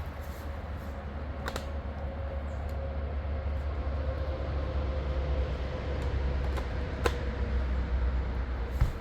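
Cordless electric chainsaw cutting through an oak log: a steady running sound with a faint motor tone that sags slightly under load, and a few sharp clicks.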